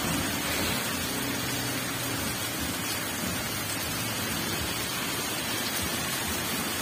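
Heavy rain pouring down onto a flooded road, a steady dense hiss.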